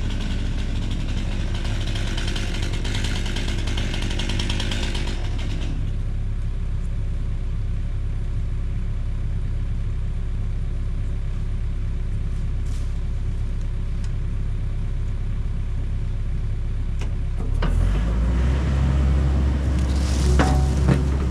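John Deere 60G excavator's diesel engine running steadily, then throttling up to a louder, deeper run near the end, with a few sharp knocks.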